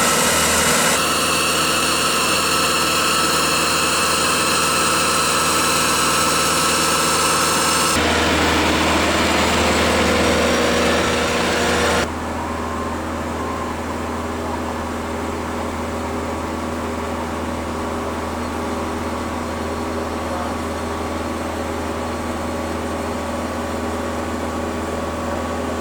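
Steady aircraft engine whine and hum, changing abruptly at edits. After the cut about eight seconds in, it becomes the steady hum heard inside a business jet's cabin, and it drops to a quieter, even hum about twelve seconds in.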